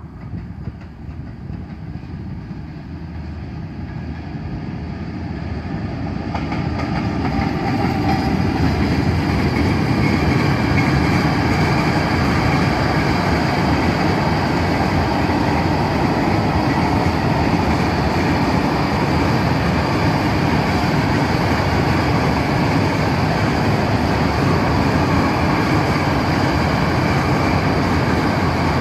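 Freight train approaching and passing close by: the sound of the locomotive and wagons on the track grows louder over the first eight seconds or so, then holds steady and loud as the wagons roll past.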